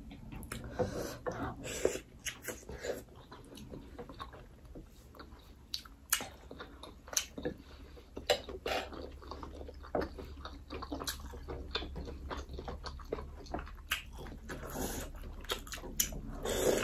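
Close-up eating sounds of momo dumplings dipped in soup being chewed: irregular wet chewing and lip-smacking clicks.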